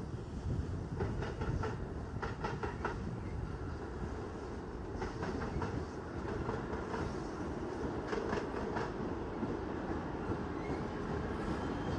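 Train rolling past on the rails with a steady low rumble, its wheels clicking over rail joints in groups of several clicks every few seconds.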